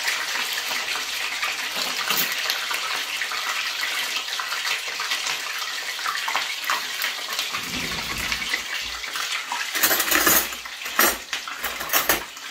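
Chicken breast frying in hot oil in a frying pan: a steady sizzling hiss, with a few louder crackles and clatters near the end.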